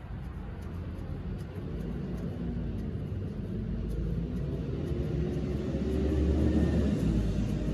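A motor vehicle's engine rumbling, growing steadily louder over several seconds.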